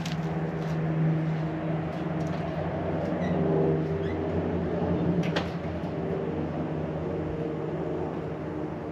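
2018 Ford F-150's 5.0 Coyote V8 idling on a cold start through a Borla ATAK cat-back true-dual exhaust, a steady exhaust drone.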